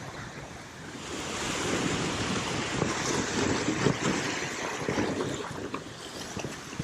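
Ocean surf breaking and washing in, swelling about a second in and easing off near the end, with wind buffeting the microphone.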